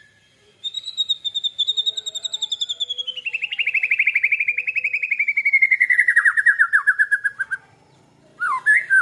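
Lovebird giving a long, fast, rattling trill (its 'ngekek') that slowly falls in pitch for about seven seconds, followed near the end by a few short sharp chirps.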